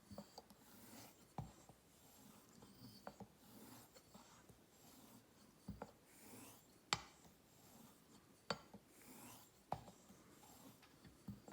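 A straight razor being honed on a wet sharpening stone: faint rubbing swishes of the blade on the stone, with a sharp click every second or so as the spine taps the stone when the razor is flipped between strokes. The loudest click comes about seven seconds in.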